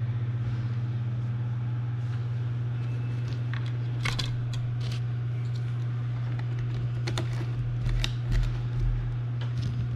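A steady low hum with scattered light clicks and knocks, and a few dull thumps about eight seconds in.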